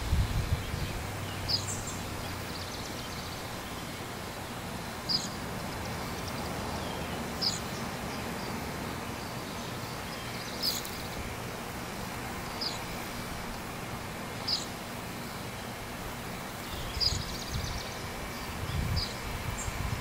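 Outdoor ambience with no siren sounding: a bird gives short high chirps every second or two over a steady hiss of leaves and insects. Wind buffets the microphone at the start and again near the end.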